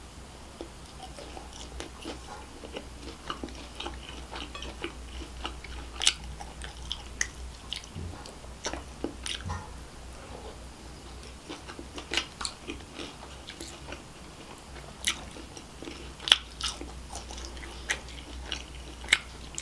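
A person chewing a handful of kottu close to the microphone, with irregular sharp crunches over quiet chewing.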